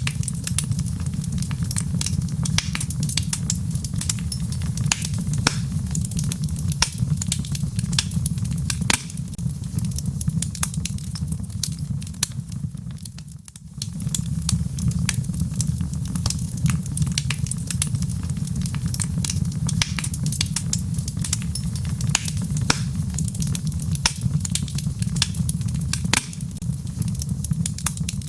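Wood fire in a fireplace crackling, with frequent sharp pops and snaps over a steady low rumble of the flames. The sound dips briefly a little under halfway through, then returns.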